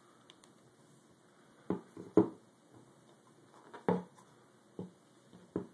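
Handling noise from the engine mounts: a handful of short clunks and knocks as the metal-and-rubber mounts are moved about on a surface. The loudest knock comes a little after two seconds in.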